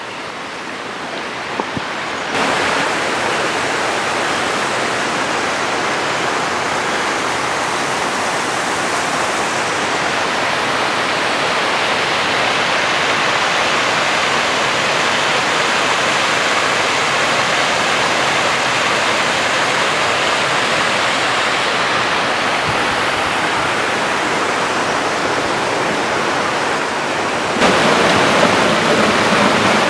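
Steady rush of a mountain creek or waterfall, louder from about two seconds in, with a sudden change in its tone near the end.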